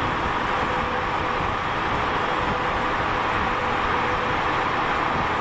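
Steady highway traffic noise of a truck on the road: an even rush of engine and tyre noise without engine-brake pulses.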